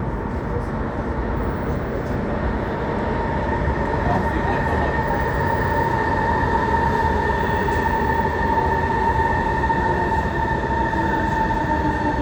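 Singapore MRT train running at the station: a steady rumble with a high electric whine that grows louder about four seconds in.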